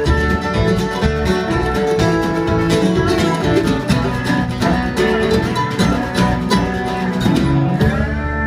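Acoustic bluegrass band playing the instrumental close of a song, with plucked guitar to the fore, settling into a held final chord near the end.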